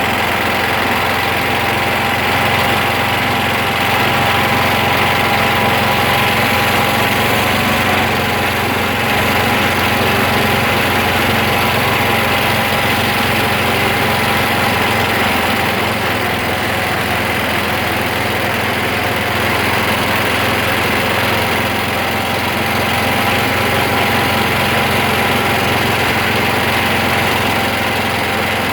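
A vehicle engine running steadily, with a faint steady whine over it and no change in speed or load.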